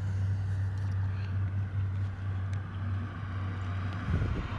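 Steady low rumble and hum of road traffic from a nearby interstate highway. A louder engine noise starts to swell near the end.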